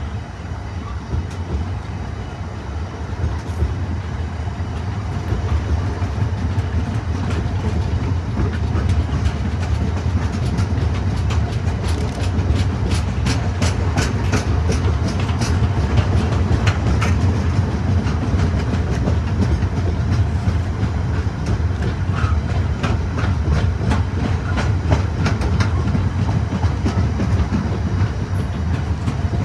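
Long freight train of enclosed car-carrier wagons rolling past at speed: a steady low rumble with a rapid clatter of wheels over rail joints, thickest in the middle.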